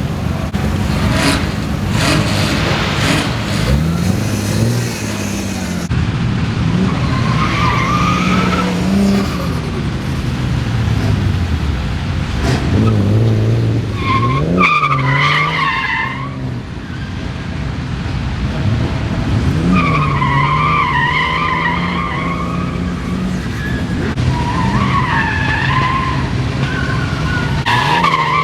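Nissan Skyline R32 drift car's six-cylinder engine revving up and down as it drifts, with the tyres squealing in long wavering screeches several times.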